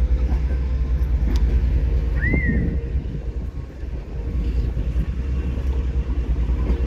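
A passenger train pulling out behind a TEP70 diesel locomotive: a steady, pulsing low rumble of the diesel and the rolling coaches. A brief high squeal rises and falls about two seconds in.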